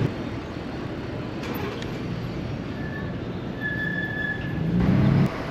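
E-bike brakes squealing briefly twice, a thin high steady squeal, over steady wind and riding noise. A louder low rumble of wind on the microphone comes shortly before the end.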